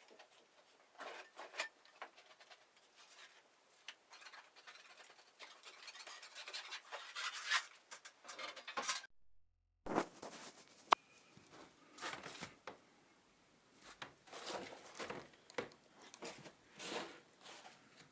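Irregular scraping and rustling in short bursts, with a few sharp clicks, and a brief cut to silence a little past halfway.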